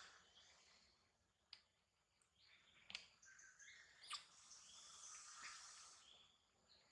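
Faint forest ambience: scattered bird chirps, with a few soft clicks about one and a half, three and four seconds in.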